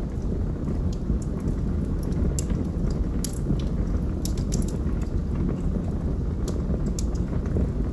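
Wood fire burning in a fireplace: a steady low rumble from the flames, with scattered sharp crackles and pops from the burning logs.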